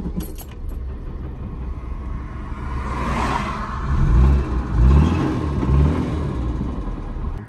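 Austin Maestro engine heard from inside the cabin, running roughly and revved up twice about halfway through. This is the sound the owner suspects comes from a failed big-end bearing after running the engine low on oil.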